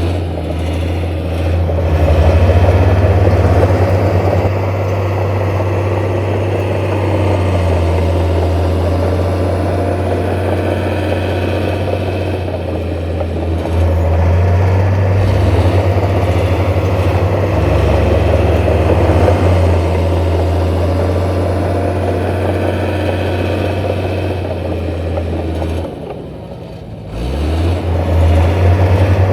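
Heavy diesel engine of earthmoving machinery running steadily, with a brief drop in level near the end before it picks up again.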